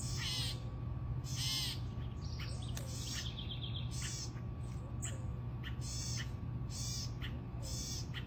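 An animal's short, high-pitched calls, repeated about once a second, over a steady low hum.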